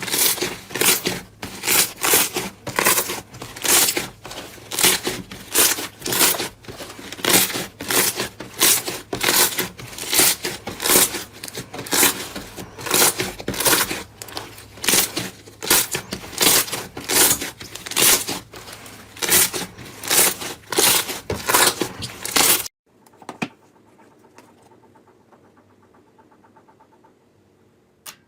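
Slime being squeezed and pressed by hand, a crackling squish about twice a second in a steady rhythm. It stops suddenly about 23 seconds in, leaving a much quieter faint hum.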